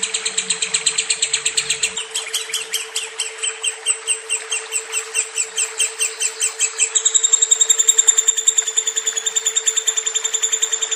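Lovebird chirping in one long, unbroken rapid series of high notes, several a second, whose pattern shifts about two seconds in and again about seven seconds in. A steady low hum runs underneath.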